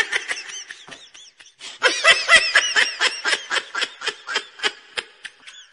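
High-pitched human laughter: rapid strings of giggles, about five a second, in two runs with a short break about a second and a half in.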